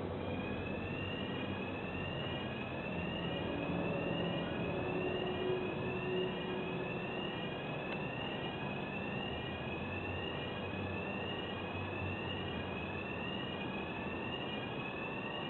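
Heavy machinery running steadily, with a high electronic warning tone that rises in pitch and repeats about once a second.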